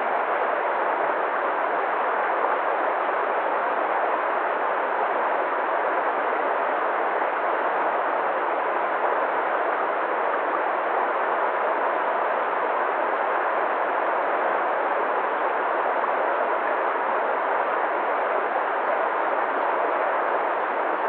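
Waterfall, water falling and rushing in a steady, even roar.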